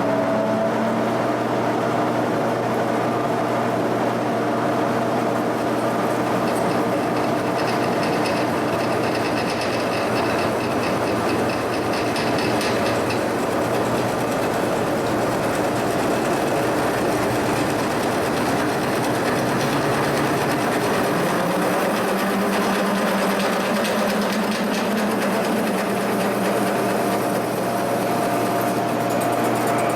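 Machine tool running steadily as a drill bit cuts through a steel part, a constant mechanical hum and cutting hiss; the note shifts lower about twenty seconds in.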